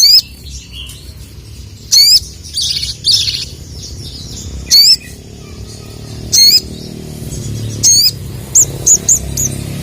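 Sogon (sogok ontong), a small nectar-feeding bird, giving sharp, high-pitched 'cuit' calls, one every second or two, with three quicker ones near the end. A low steady hum runs underneath.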